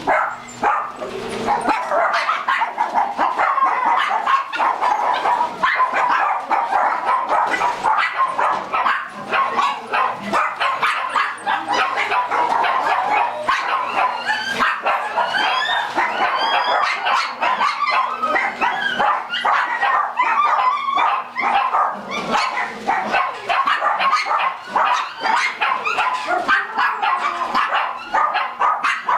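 Many dogs barking, yipping and whining at once in a crowded room of small-dog cages: a loud, continuous din of overlapping calls, with higher, rising yelps among the barks.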